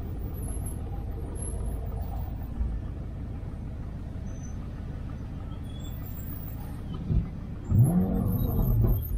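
Car engine running with a steady low rumble, then a louder rev about three-quarters of the way in that rises and falls in pitch.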